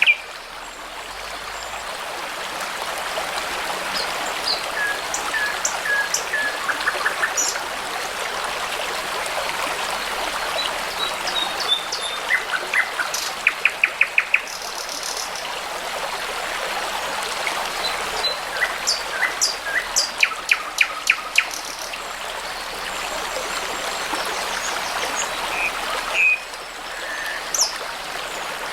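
Several songbirds chirping and singing, with short calls and quick runs of repeated notes, over the steady rush of a babbling brook.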